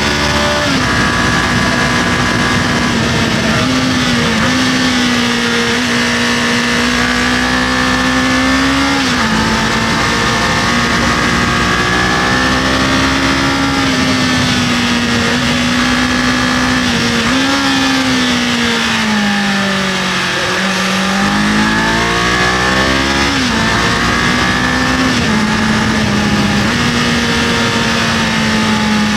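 Kawasaki KLE500 parallel-twin engine running at a steady cruise under way, with a haze of wind and road noise. Its pitch holds mostly level with a few small shifts, falls off about two-thirds of the way through as the revs drop, then climbs back up.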